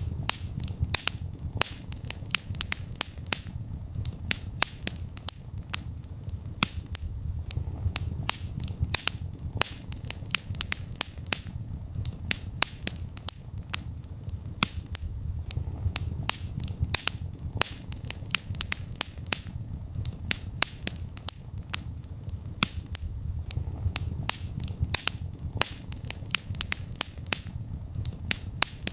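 Wood fire burning in a fireplace: dense, irregular crackling and popping, several sharp snaps a second, over a low rumble of flames that swells and eases every few seconds.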